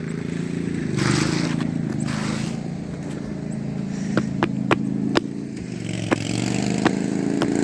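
Pulley-swapped riding lawn mower engine running steadily, its pitch swelling briefly about a second in and again near the end. Several sharp clicks or knocks come in the second half.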